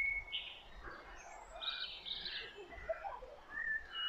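Small birds chirping and warbling faintly, short scattered calls over a low background rumble.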